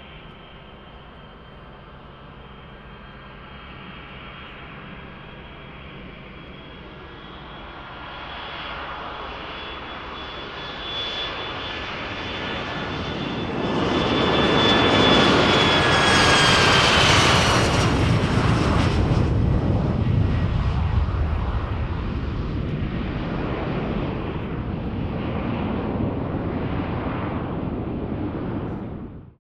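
Departing aircraft passing by. Its engine noise and a high whine build steadily to a loud peak about halfway through, and the whine drops in pitch as the aircraft goes past. The sound then eases off and cuts off suddenly near the end.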